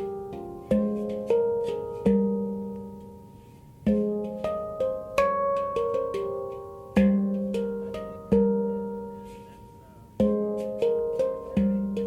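F minor handpan by Oasis Sound Sculpture played by hand: quick clusters of struck notes that ring and overlap, with a low bass note struck and left to fade out between phrases, three times.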